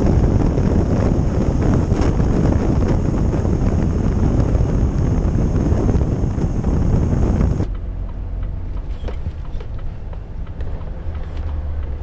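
Volvo truck on the move, heard from the cab: a loud rushing road-and-wind noise over the low engine rumble, which cuts off suddenly about eight seconds in, leaving a quieter steady rumble.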